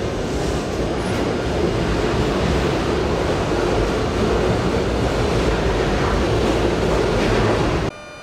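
Tobu 100 series Spacia electric train running, a loud, steady rumble of wheels and running gear on the rails that cuts off suddenly near the end.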